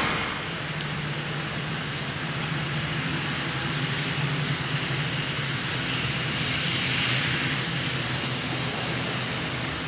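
Jet engines of a Boeing 747SP (NASA's SOFIA) running steadily, a wash of engine noise over a low hum.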